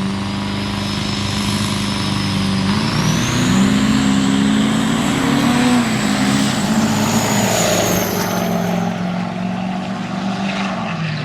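Diesel pickup trucks making a drag-strip run. The engine note steps up about three seconds in, a thin high whine climbs over it, and the sound falls away near the end.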